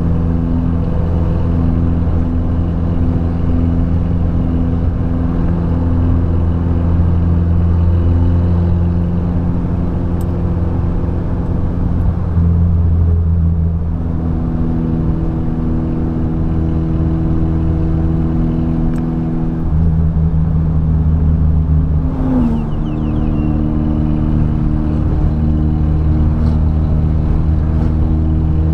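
Car engine running steadily under way, its note shifting in pitch a few times, around the middle and again toward the end.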